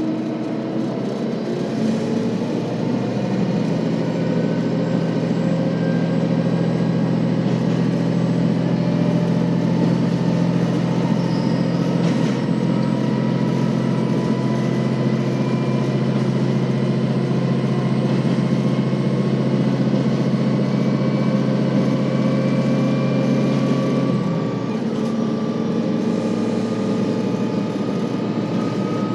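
KiHa 40 series diesel railcar running: a steady diesel engine drone over rumbling running noise, with a whine that climbs slowly in pitch as the train gathers speed. About 24 s in, the engine note drops and the sound eases slightly.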